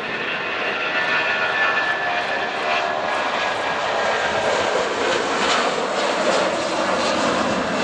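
Boeing 757 jet engines at takeoff power: a steady jet roar with a high whine over it, growing a little louder about a second in.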